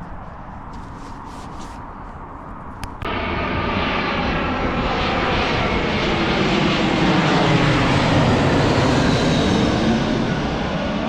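Airliner on landing approach passing low overhead. A faint rumble gives way abruptly about three seconds in to loud engine noise with whining tones that slide in pitch as it goes by, peaking past the middle and easing off near the end.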